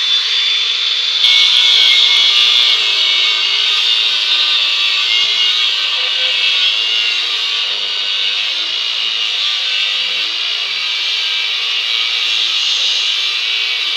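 A power tool running continuously under load, with a steady high-pitched cutting noise that gets louder about a second in.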